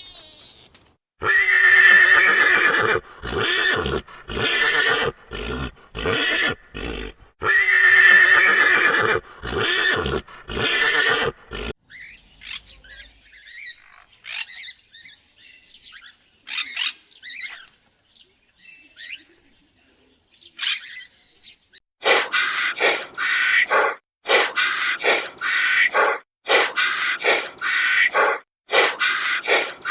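Horse neighing: two long, loud whinnies in the first half, with quieter broken sounds after. In the last several seconds comes a run of short, quick, loud calls.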